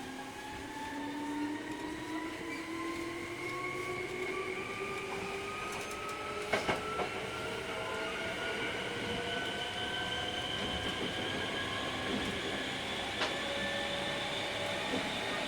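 Hankyu 3300 series electric train running, heard from inside the car, with the traction motors' whine climbing steadily in pitch as the train gathers speed. A few sharp clicks and knocks come from the wheels and track.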